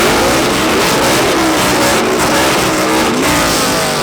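Two cars' engines revving hard at the same time through loud performance exhausts, the pitch rising and falling again and again.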